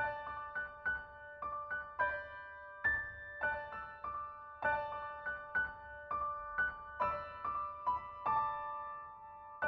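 Gentle background piano music: a slow line of single struck notes that ring on and overlap.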